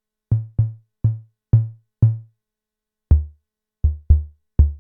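Arturia DrumBrute Impact's analog low tom struck in a loose series of short, quickly fading pitched hits. About three seconds in, the tom's pitch is turned down and the later hits sound deeper.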